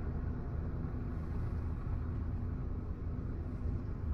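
Double-stack intermodal freight train rolling past: a steady low rumble of steel wheels on the rails, with a faint hum that comes and goes.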